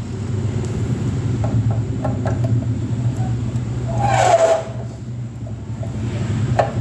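Small clicks and scrapes of screws being undone on a mixer's chassis, over a steady low engine-like rumble in the background. About four seconds in comes a brief, louder scraping squeak.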